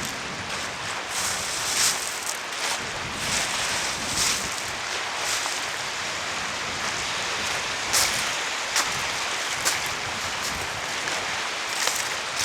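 Steady outdoor hiss of rain and wind, with short rustling noises now and then.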